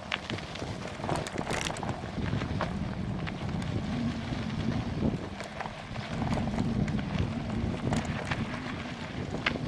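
Wind buffeting the microphone of a camera on a bicycle riding into a headwind, a steady rumble with scattered clicks and rattles from the bike jolting over a rough trail.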